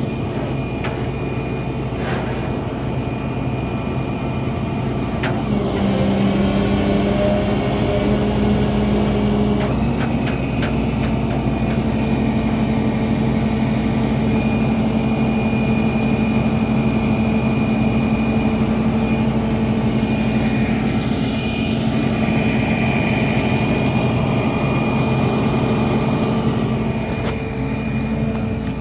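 Flatbed tow truck running its hydraulics: a steady engine and pump hum with a faint high whine. About five seconds in a hissing rush starts and the pitch shifts; it stops about four seconds later, and a steady, slightly louder tone carries on until near the end.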